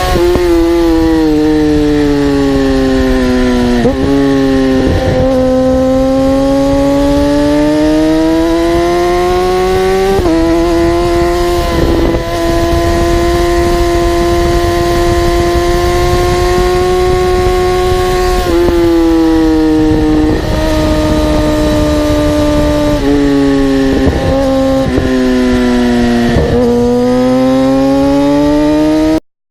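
Motorcycle engine running during a ride, its pitch sinking and climbing with speed and jumping abruptly a few times as gears change. The sound cuts off suddenly near the end.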